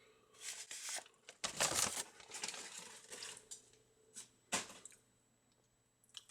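Paper fast-food packaging being handled, crinkling and rustling in several bursts, the loudest about a second and a half in, with one sharp crackle near the end.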